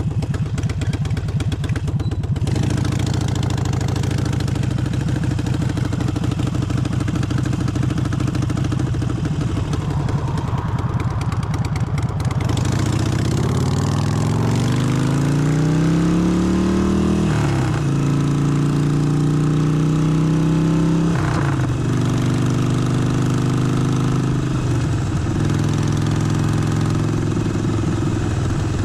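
Harley-Davidson Forty-Eight's air-cooled 1200 cc V-twin idling steadily. A little under halfway through it pulls away, its pitch rising as it accelerates. Three brief breaks come as the gears are shifted, with steady running between them.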